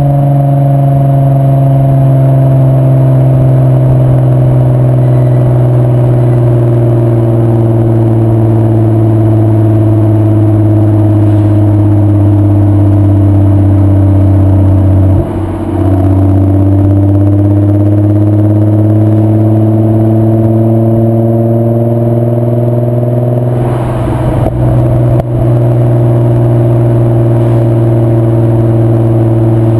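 VW mk4 2.8 VR6 24V (AQP) engine running through a Milltek non-resonated exhaust while driving. The engine note sinks slowly, breaks off briefly about halfway, then climbs again. A few short knocks come at about 24–25 s, after which the note holds steady.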